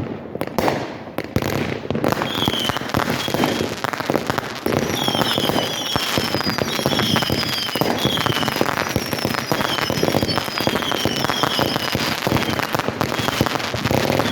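Fireworks going off in a dense, continuous crackle and pops, with many short high whistles repeating from about two seconds in.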